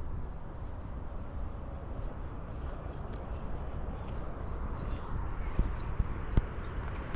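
Steady outdoor background noise with a low rumble, and a few sharp knocks or taps near the end.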